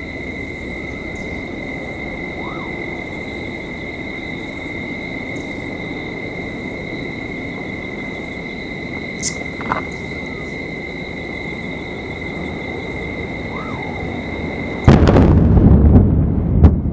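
Starship S36 exploding on its test stand. A steady outdoor background with a high, even whine runs for about fifteen seconds, then a sudden loud blast hits. A heavy rumble follows, with another sharp crack near the end.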